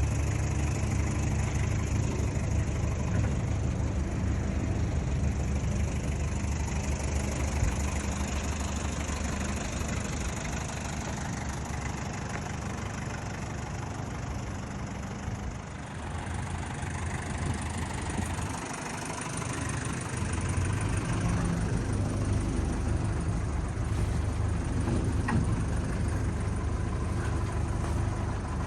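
Mazda Bongo Brawny's R2 diesel engine running steadily, with a slight dip in level about two-thirds of the way through.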